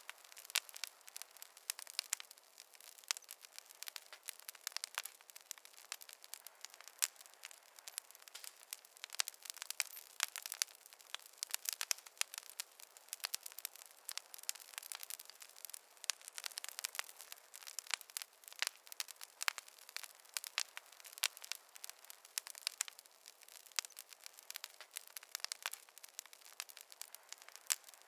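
Campfire burning with a steady stream of irregular crackles and pops from the burning wood.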